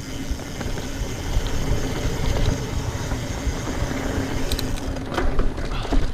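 Mountain bike being ridden along a dirt trail: a steady rumble of tyres and wind on the microphone, with a few sharp clicks and rattles from the bike about two-thirds of the way in.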